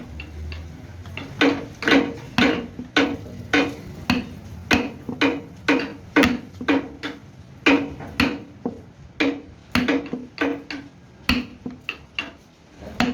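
Hammer blows struck in a steady rhythm, about two a second, each with a short ringing tone.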